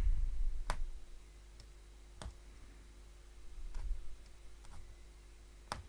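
Hollow punch needle being stabbed through stretched fabric, making sharp irregular clicks, about seven in all, spaced from half a second to over a second apart. Low handling rumble sits under the clicks at the start and again near the middle.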